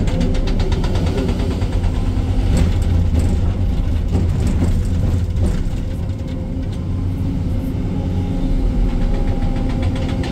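Excavator diesel engine running steadily, heard from inside the cab, with a fast, even clatter over it for about the first five seconds.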